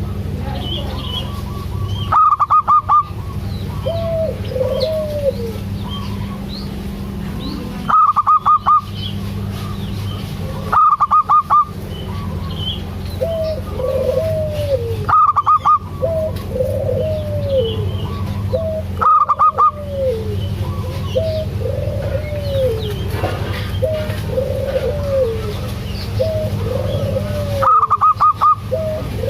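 Zebra dove (perkutut) cooing, a run of short rising-and-falling coo notes over and over. About six times there is a loud burst of rapid pulsed higher notes. A steady low hum runs underneath.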